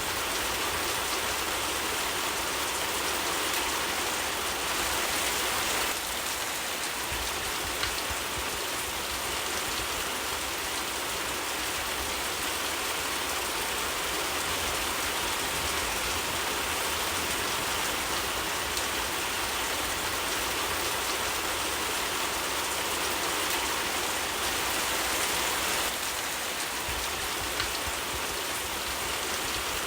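Steady rain, an even hiss of drops falling on a surface, with a couple of faint single pops.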